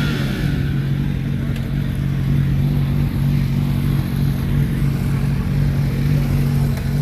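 Motorcycle engine idling steadily, holding an even pitch.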